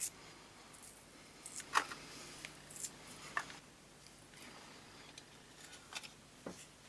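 Scattered light clicks, taps and short scrapes of small metal parts being handled, the sharpest click a little under two seconds in.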